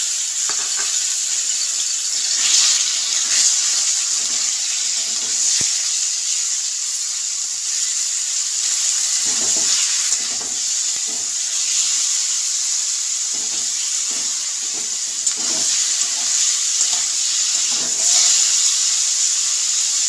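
Marinated chicken strips sizzling in hot refined oil in a metal kadai, a loud steady hiss, with a flat metal spatula now and then scraping and stirring them against the pan.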